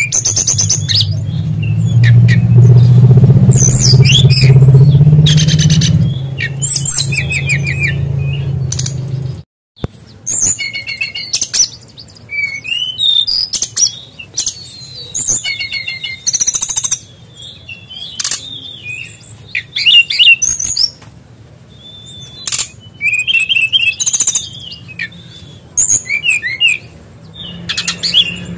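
Brown-chested jungle flycatcher (SRDC) singing: repeated bursts of high, fast chirps and trills with short pauses between phrases, its song mixed with imitated kingfisher calls. A low steady hum sits under the first nine seconds and ends at an abrupt cut.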